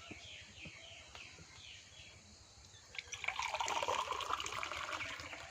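Water pouring and splashing for about two seconds, starting about three seconds in.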